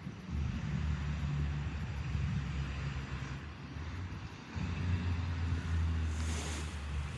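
Steam locomotive No. 16 at rest, giving a steady low rumble that dips briefly midway. A short burst of hiss comes about six seconds in.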